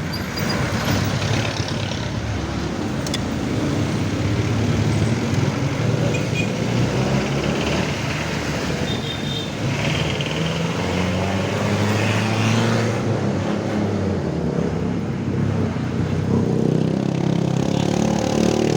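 Road traffic: motor vehicle engines and tyre noise running continuously, with the engine sound swelling and easing as vehicles pass.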